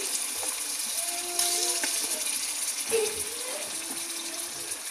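Raw chicken pieces sizzling in hot oil and tomato-onion masala in a wok: a steady frying hiss with a few faint clicks.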